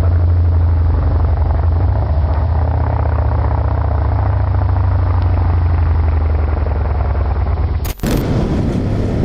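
Loud, steady low rumble of a vehicle under way, with engine and road or wind noise. It changes abruptly near the end to a brighter noise from another clip.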